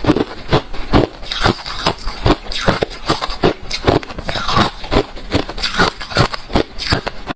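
Refrozen crushed ice being chewed close to the microphone: a quick, uneven run of hard, crunchy bites, several a second.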